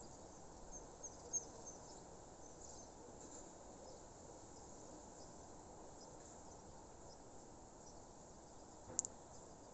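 Faint outdoor nature ambience of chirping insects under a steady hiss, with a few short high chirps about a second in. A single sharp click comes near the end.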